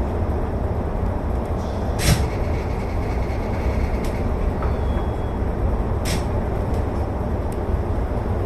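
Electric commuter train running along the line, a steady low rumble of wheels on rail, with two sharp clacks about four seconds apart.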